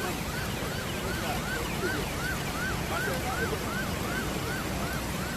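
An electronic siren or alarm giving rapid repeating chirps, about three a second, each rising and falling in pitch, over a steady rushing noise.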